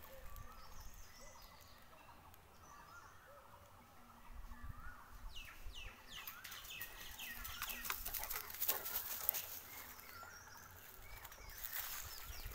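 Wild birds calling in woodland: wavering whistled calls throughout, with a run of quick downward-sweeping calls about halfway through. Footsteps crunch in dry leaf and pine-needle litter.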